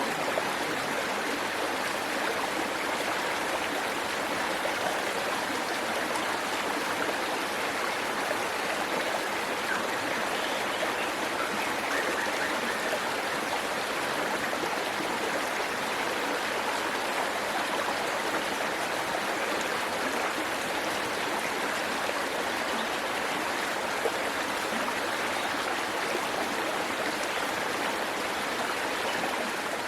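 Waterfall: water rushing and splashing in a steady, unbroken stream.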